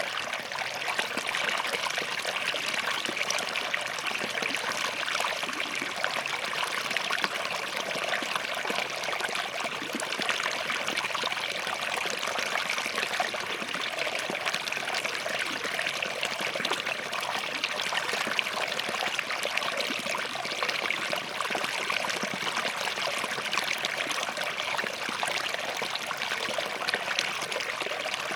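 A small forest stream flowing and trickling over rocks, a steady splashing rush with no breaks.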